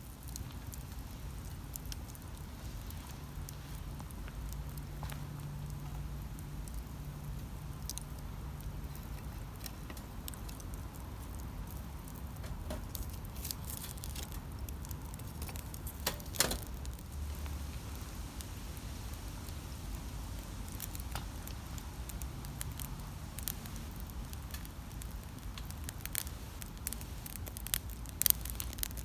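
Wood campfire burning, with sparse crackles and pops over a steady low rumble; a few sharper snaps come about halfway through and near the end.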